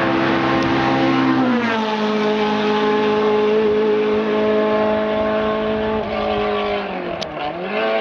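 Racing car engine running hard at high revs. Its pitch falls about two seconds in, holds steady, then dips and climbs again near the end.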